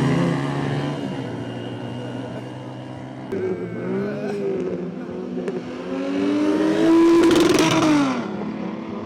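Car engines at full throttle. The first fades away in the first second. About six seconds in, another engine note climbs in pitch to a loud peak, then drops away near the end.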